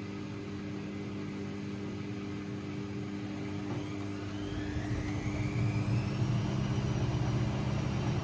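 AEG Lavamat 6610 washing machine (a 1600 rpm spin model) speeding up into a spin. A steady motor hum gives way, about halfway in, to a whine that rises in pitch and a louder low rumble as the drum gathers speed.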